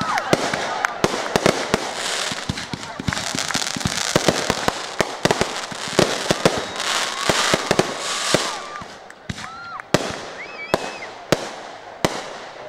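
Fireworks finale: a rapid barrage of bangs over a dense crackle, thinning out to separate bangs in the last few seconds.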